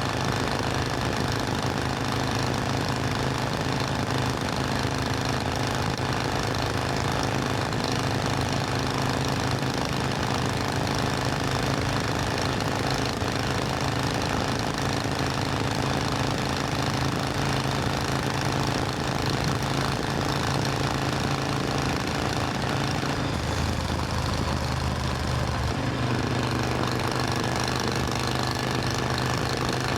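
Supercharged Triumph Thunderbird Storm's parallel-twin engine running steadily, its engine note shifting to a different pitch about three-quarters of the way through.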